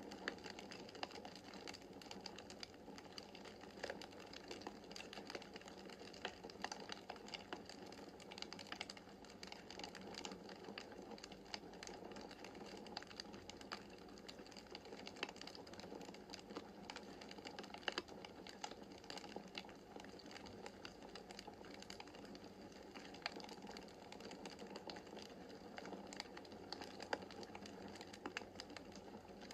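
Wood fire in a fireplace crackling steadily, with a dense run of small snaps and occasional sharper pops over a soft flame hiss.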